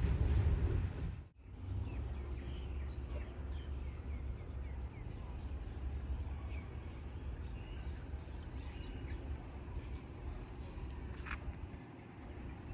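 Outdoor ambience with a steady high insect drone, scattered faint bird chirps and a low steady rumble. The sound cuts abruptly about a second in.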